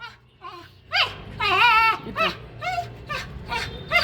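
An animal giving a rapid series of short, high-pitched calls, each rising and falling in pitch, with one longer wavering cry about a second and a half in.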